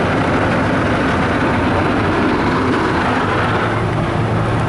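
Tunnel car wash heard from inside the car during the presoak stage: a steady, loud hiss of spray over the body with a constant low hum underneath.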